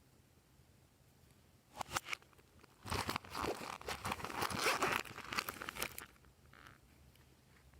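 Glossy slime being worked by hand, with a couple of sharp clicks near two seconds, then a dense run of crackling and crunching from about three to six seconds.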